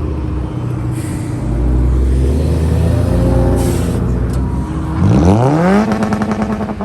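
Car engine running low, then revved hard about five seconds in: the pitch climbs quickly, then holds high with a wavering exhaust note.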